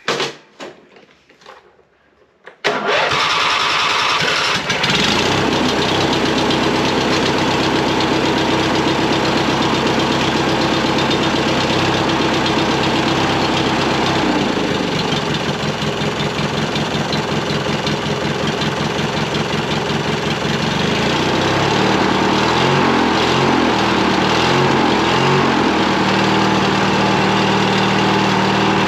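Garden tractor's small gasoline engine catching suddenly about three seconds in after a few faint clicks, then running steadily. The engine speed drops about halfway through, wavers for a few seconds, and then settles.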